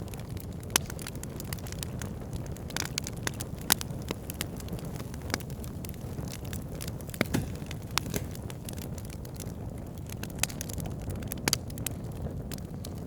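Wood campfire burning: a steady low rush of flames with frequent irregular sharp crackles and pops from the burning wood.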